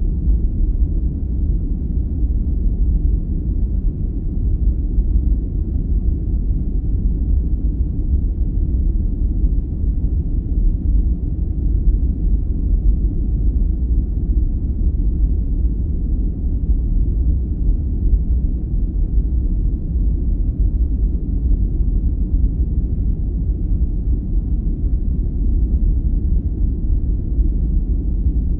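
Steady, deep rumbling noise with no tones or events, its energy heavy in the bass and dull above: a continuous sleep-aid noise track of the brown-noise kind, sold as white noise.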